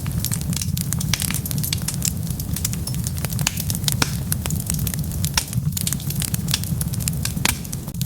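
Wood fire burning with dense, irregular crackles and pops over a steady low rumble of flame.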